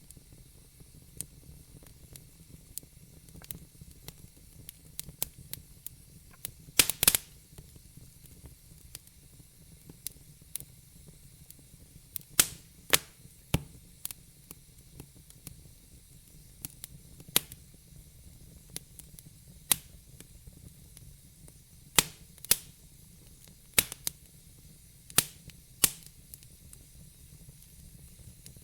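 Wood logs burning in a fireplace, crackling: irregular sharp pops and snaps over a faint hiss, with a loud cluster of pops about seven seconds in and more strong snaps scattered through the rest.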